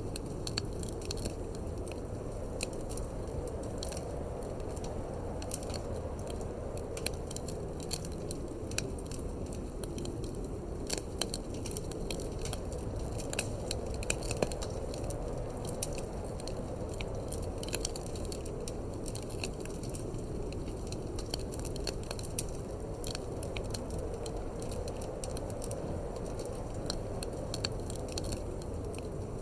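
Wood fire in a fireplace crackling and popping in irregular sharp snaps, a few louder pops among them, over a steady low rumble of wind.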